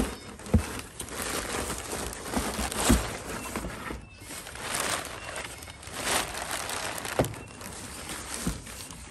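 Packaging crinkling and rustling as a new pressure-washer hose is handled, in waves, with a few sharp knocks.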